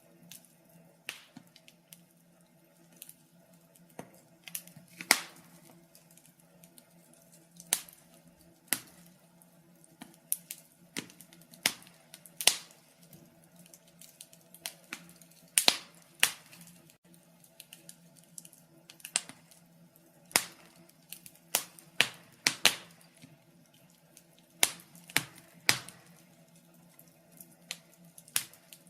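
Wood fire crackling: irregular sharp pops and snaps, some close together in pairs or clusters, over a faint steady low hum.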